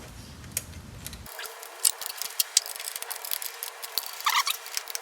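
Small metallic clicks and taps of hand tools on a carburetor being fastened onto a Type 4 VW engine, with a couple of sharper knocks and a short rattling run of clicks near the end.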